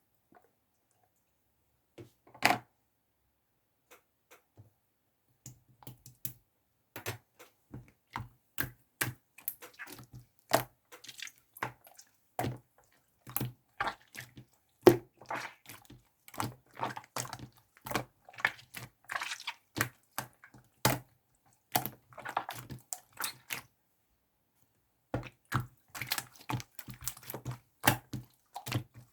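Many small, irregular clicks and taps, some louder than others, with a short pause about three-quarters of the way through.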